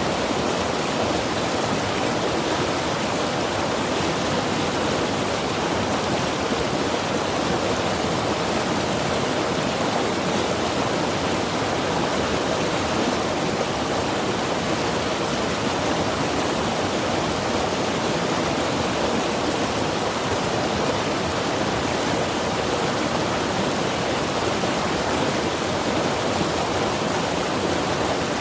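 Mountain river rushing steadily over rocks, a constant, even roar of water with no breaks or single events.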